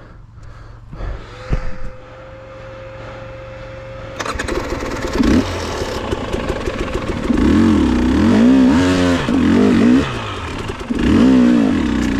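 Dirt bike engine running low at first, then from about four seconds in revving hard, its pitch rising and falling again and again as the throttle is worked.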